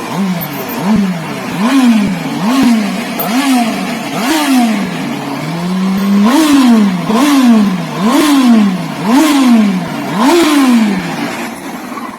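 Yamaha R1 inline-four sportbike engine being blipped about ten times, roughly once a second. Each time the revs snap up and die back down, with a brief steady hold about halfway through.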